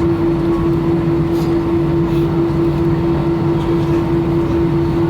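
Airbus A318 cabin noise while taxiing after landing: the jet engines at idle give a steady hum with one constant droning tone over an even rush of air noise.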